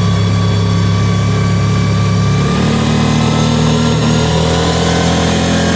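Kawasaki Teryx side-by-side's engine running steadily while driving, its engine note changing about two and a half seconds in.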